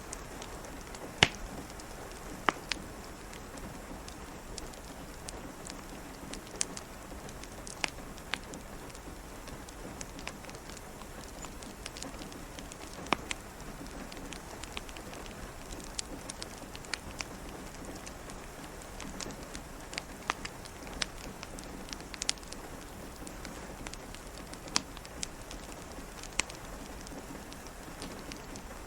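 Steady rain hiss with a crackling wood fire: irregular sharp pops every second or two over the even patter, the loudest about a second in.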